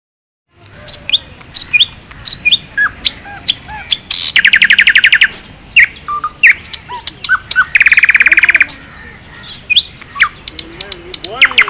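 Small birds chirping in quick, sharp, loud calls, with two rapid trills of about a second each, one a third of the way in and one two-thirds through. The sound starts after about half a second of silence.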